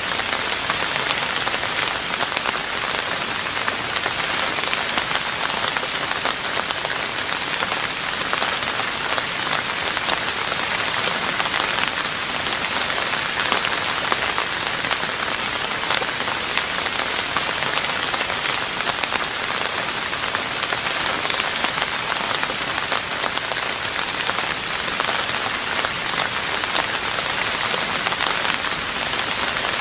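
Steady rain falling on a roof: a dense, even patter of drops with no break or change.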